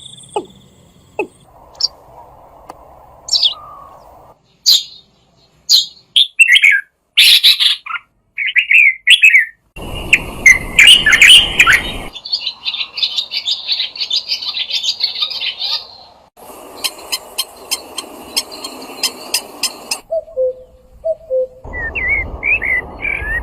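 Several different songbirds chirping and singing, in short recordings cut one after another so that the background hiss changes abruptly every few seconds. There are quick high chirps and sweeping whistled notes, a fast run of evenly spaced notes past the middle, and a few lower calls shortly before the end.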